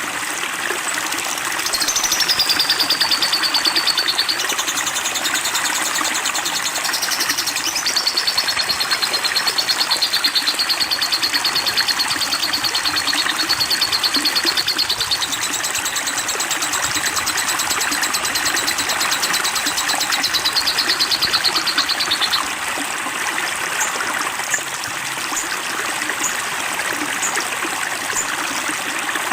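Running water trickling steadily, with a songbird singing one long, rapid trill for about twenty seconds that wavers up and down in pitch, followed by a few short high notes near the end.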